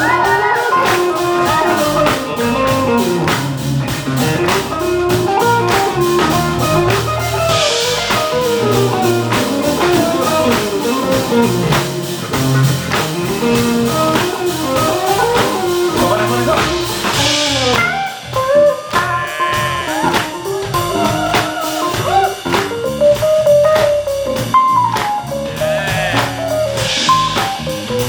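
Live rock band in an instrumental break: a guitar solo full of bent, sliding notes over a steady drum beat and bass, with cymbal crashes about every ten seconds.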